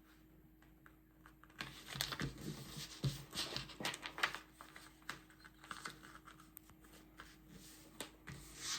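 A sheet of paper being folded and creased by hand: irregular rustling and crisp crinkles with sharp creasing clicks, starting about a second and a half in.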